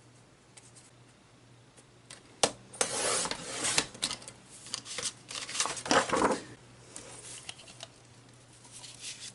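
Paper cards being handled on a work table: rustling, sliding and light taps that start about two seconds in, are loudest over the next four seconds, then thin out to a few clicks.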